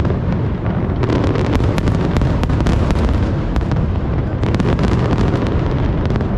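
Aerial fireworks going off in rapid succession: a dense, continuous low rumble of booms with many sharp cracks and pops over it.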